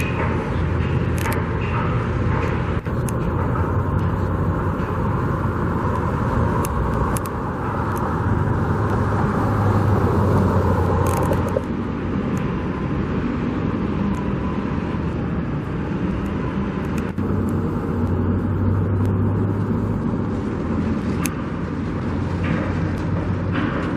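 Steady road traffic noise, with passing vehicles swelling louder about eight to eleven seconds in and again around eighteen to twenty seconds.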